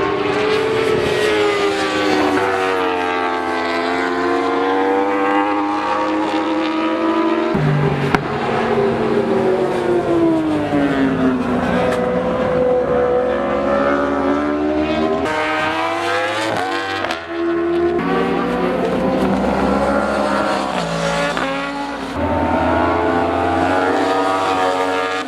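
1000 cc superbike racing motorcycles at full throttle, the engine pitch climbing and dropping again and again as they accelerate and shift, with several bikes overlapping. The sound changes abruptly a few times, about 7 and 18 seconds in.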